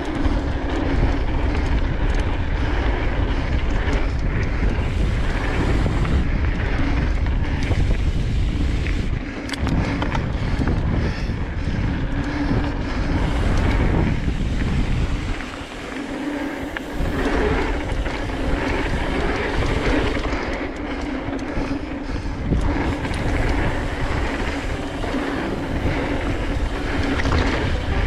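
Wind buffeting the microphone and mountain bike tyres rolling over a dirt trail during a fast descent, with the low rumble easing for a moment about fifteen seconds in.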